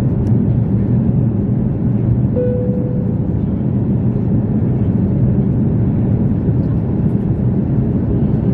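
Steady, loud low rumble of an Airbus A340-300's jet engines during departure, with a short steady tone about two and a half seconds in.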